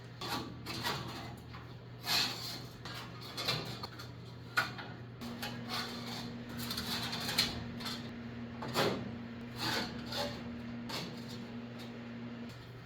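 Irregular clicks and clanks of metal hardware being handled and fitted while new pickup bands are put back on a hay baler, over a steady low hum.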